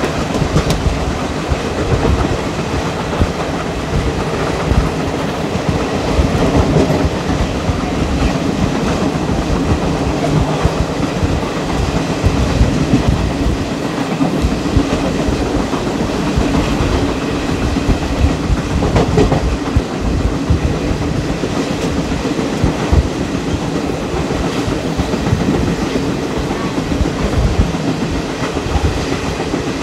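ICF passenger coach running along the track: a steady rumble with continuous clickety-clack from the wheels over the rails.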